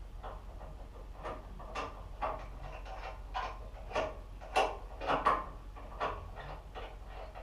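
Irregular knocks and clatter of parts and tools being handled, about a dozen short hits, loudest around the middle, over a faint steady hum.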